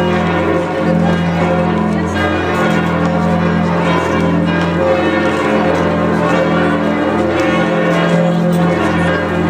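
Cathedral bells pealing, many tones sounding together and overlapping in a continuous ringing.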